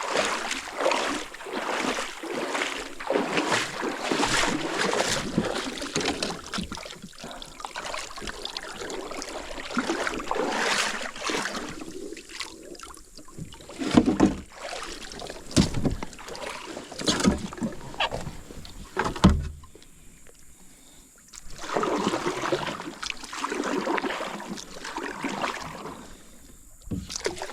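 Paddle strokes splashing and dripping in the water beside a small paddled boat, coming in uneven bursts, with a few sharp knocks against the hull about halfway through.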